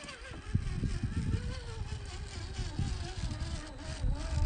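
Electric motor and drivetrain of a 1/10-scale RC rock crawler whining, its pitch wavering up and down as the throttle changes, over an uneven low rumble.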